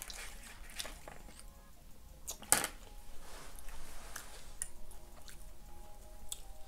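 Close-miked chewing of a mouthful of burrito-bowl food with the mouth closed: soft, wet mouth clicks, with one sharper click about two and a half seconds in.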